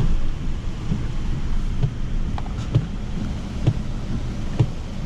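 Strong storm wind rumbling on the microphone, with a regular thud about once a second.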